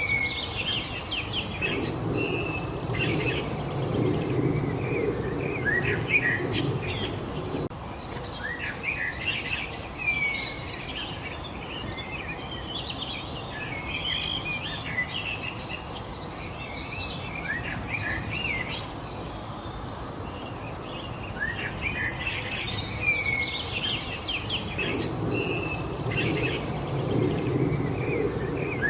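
Songbirds chirping and singing over one another in quick high notes and short trills. Underneath is a low background rumble that swells for several seconds near the start and again near the end.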